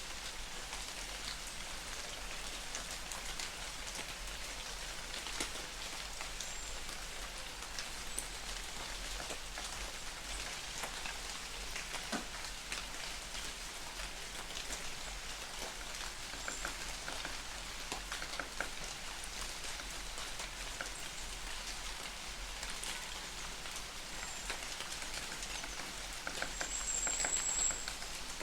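Light rain falling in a forest: a steady patter of many small drops on leaves and ground. A few short high-pitched chirps come through, the clearest near the end.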